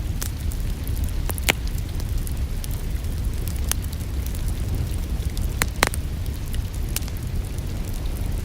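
Crackling wood fire: a steady low rumble broken by sharp pops and snaps, the loudest about a second and a half in and a close pair near six seconds.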